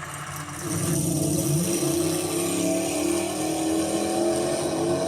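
A vehicle engine running steadily, with a brief rise in pitch about a second and a half in.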